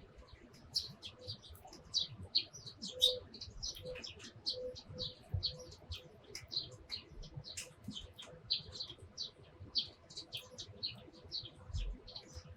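Sparrows chirping: a steady stream of short, quick chirps with hardly a pause.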